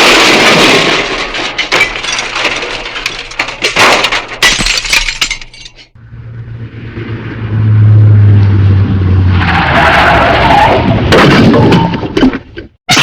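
Cartoon crash sound effect: glass breaking, with pieces clattering and tinkling as it dies away over several seconds. A low rumble then comes in and swells toward the end.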